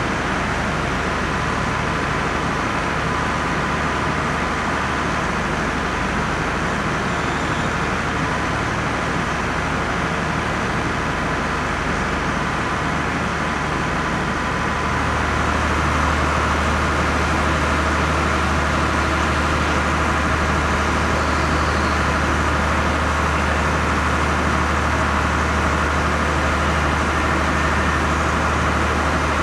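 Steady low engine hum of idling trains, with a constant mechanical drone above it. About halfway through, the hum steps up and grows louder.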